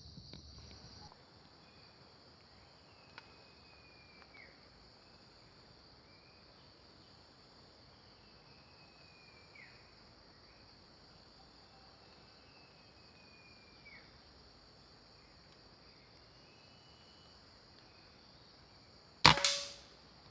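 A single sharp gunshot about a second before the end, the loudest sound, fading quickly. It stands over a steady high insect hum with a few faint, short, descending bird whistles.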